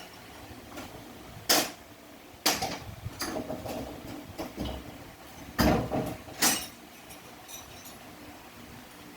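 Metal parts of a Ford 5R55S automatic transmission knocking, clanking and scraping as it is taken apart by hand: a handful of sharp knocks with short rattles, the loudest about a second and a half in and again near six seconds.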